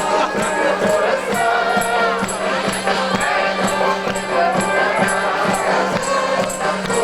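Music: several voices singing over a regular high percussion beat, about two strokes a second, with a steady low hum underneath.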